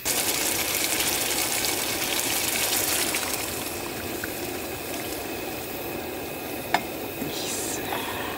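Food sizzling in a hot pan: a steady crackling hiss, with a single sharp click about seven seconds in.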